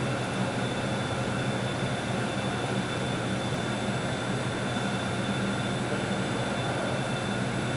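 Steady machine hum and hiss with several steady tones, unchanging throughout.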